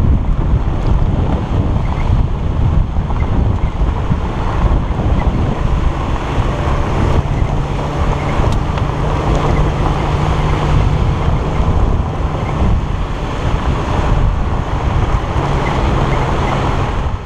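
Wind buffeting the microphone of a camera mounted outside a Nissan Xterra driving on a dirt road, over a steady rumble of tyres and drivetrain. A low, even hum comes up about six seconds in and holds until near the end.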